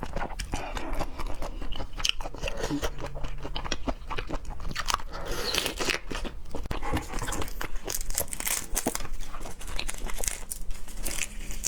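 A person chewing and biting raw seafood, with many quick clicks and crunches of the mouth.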